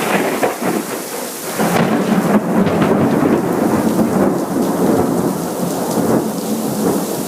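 Thunder rumbling over steady rain, the rumble swelling about a second and a half in and carrying on for several seconds.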